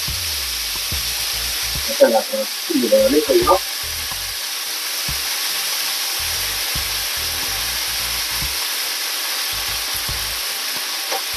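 Chopped callaloo sizzling steadily in a hot pan as it is spread and mixed in by hand, a constant frying hiss. A couple of short warbling sounds cut in about two to three and a half seconds in.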